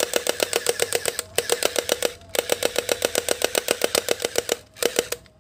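Electric toy gel blaster firing on full auto: a fast, even rattle of clicks over a steady motor tone, in four bursts with short breaks between them.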